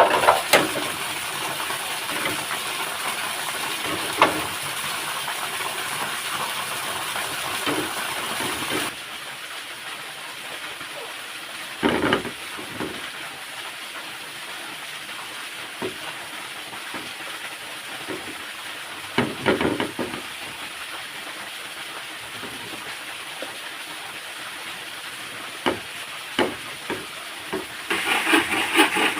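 Steady rush of a waterfall, with scattered single knocks. The rush drops off abruptly about a third of the way in. Near the end, rapid rasping strokes begin, as of wood being sawn for building a hide.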